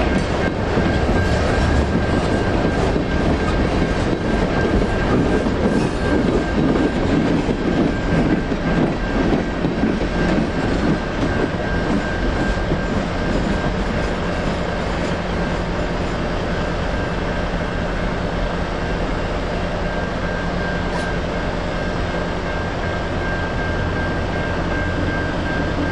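Freight train cars rumbling and clacking over the crossing, dying away about halfway through as the last car clears. Railroad crossing bells ring steadily throughout.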